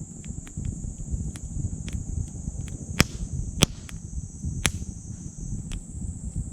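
Wood fire crackling in a titanium wood stove, with scattered small clicks and three sharp loud pops about three, three and a half and nearly five seconds in, over a low rumble. A steady high-pitched insect chorus goes on behind it, thinning briefly near the end.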